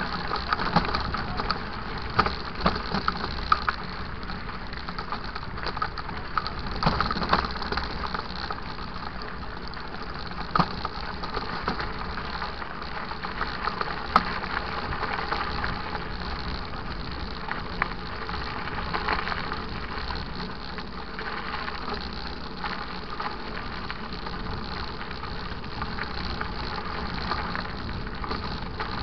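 Mountain bike riding over a rough dirt trail: steady tyre and rolling noise with frequent short rattles and knocks from the bike, busiest in the first ten seconds or so.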